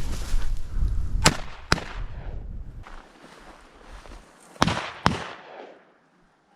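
Shotgun shots at a flushed Mearns quail. There are two sharp reports about a second in, half a second apart, then two more about three seconds later; the bird is missed.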